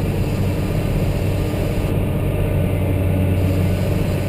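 Caterpillar 988H wheel loader's C18 diesel engine running steadily under load, heard from inside the cab, with a strong low hum and no change in pitch, as the machine works into the rock pile in first gear.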